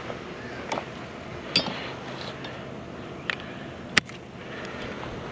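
A few light clinks and knocks of hard items being handled, with the sharpest click about four seconds in.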